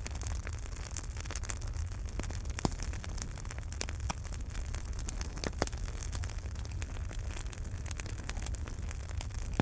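Wood fire burning in a fireplace: constant crackling with frequent sharp pops over a low steady rumble and hiss. Two louder pops stand out, about a quarter of the way in and just past halfway.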